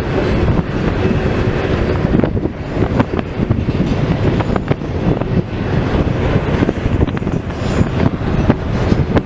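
Freight train cars rolling past, loud and steady, their wheels clicking irregularly over the rail joints, with wind noise on the microphone.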